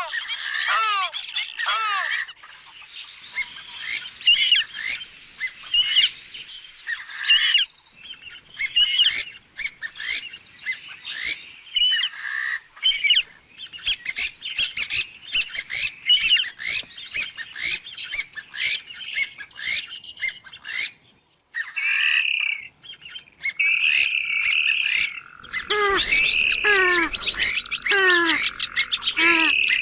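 Purple swamphen (trích cồ) calling over and over: a rapid run of harsh squawks and short down-slurred notes. About 25 seconds in the calling grows denser, with lower calls and a steady high tone joining.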